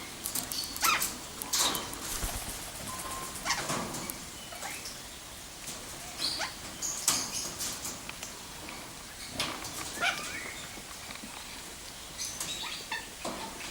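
Birds in an aviary calling: a dozen or so short, harsh calls at irregular intervals, with a few thinner chirps among them.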